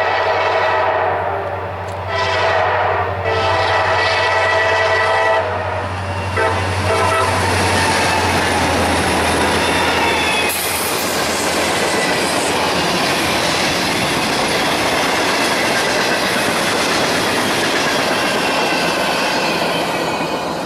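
Diesel locomotive horn sounding a chord in several blasts, the longest ending about five and a half seconds in, then a brief toot. The engine's low drone fades out after about ten seconds, and the train's cars roll past steadily with wheel clickety-clack.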